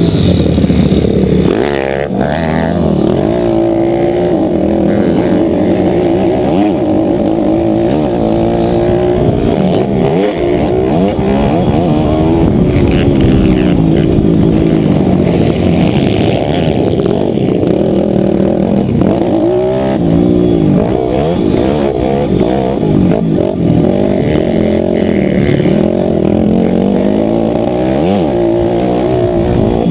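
Motocross bike engine heard on board, its pitch climbing and dropping over and over as the rider accelerates and eases off around the track.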